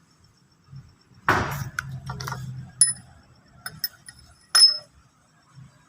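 Metal engine parts and hand tools clattering and clinking on a workbench: a rough scrape about a second in, then several sharp metallic clinks that ring briefly.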